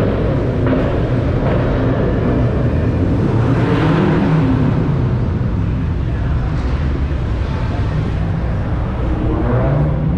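Car engines running at idle, a steady low rumble that swells briefly about four seconds in and again near the end.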